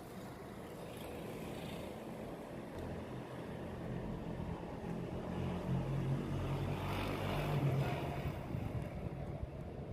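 A motor vehicle's engine hum, growing louder to a peak about seven to eight seconds in, then fading as it passes.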